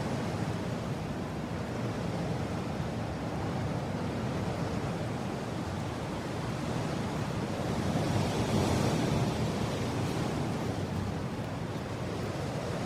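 Steady strong wind blowing, a deep rushing noise that swells in a gust with more hiss a little past halfway through.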